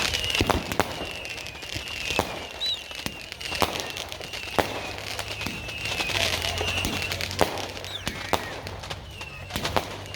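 Fireworks going off all around: scattered sharp bangs about every second over a continuous crackling haze, with high wavering whistles from whistling fireworks.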